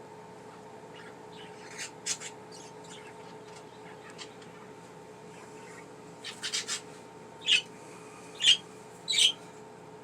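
Pet budgerigars chirping and squawking in short calls: a few soft chirps early, a quick run of chirps just past the middle, then three louder squawks near the end. A faint steady hum sits underneath.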